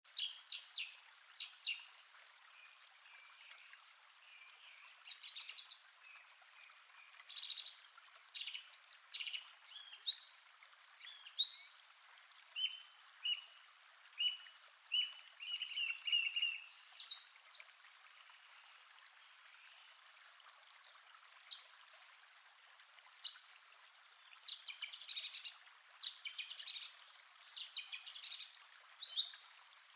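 Several birds singing and calling: short chirps, whistled notes and rapid trills overlapping, over a faint steady hiss.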